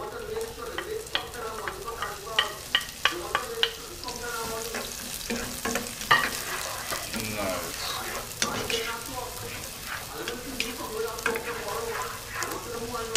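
Chopped onion, garlic and pimento sizzling in hot oil in a frying pan while a wooden spoon stirs them. A quick run of five or so sharp knocks comes a couple of seconds in, with a few single knocks later, from the spoon against the plate and pan.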